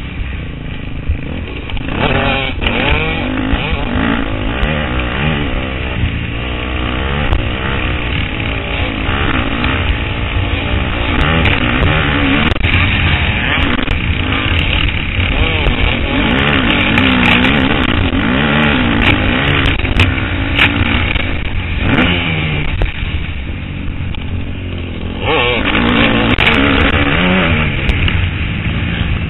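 KTM 250 SX-F single-cylinder four-stroke motocross engine revving up and down as the bike is ridden round the track, over rushing wind noise. The engine pitch rises and falls again and again as the rider throttles on and off, with a sharp surge about 25 seconds in.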